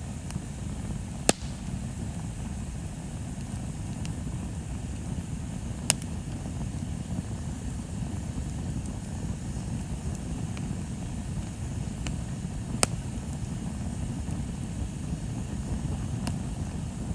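Bonfire burning: a steady low rumble with sharp pops of crackling wood, three of them loud, near the start, in the middle and about three-quarters through, and several fainter ones between.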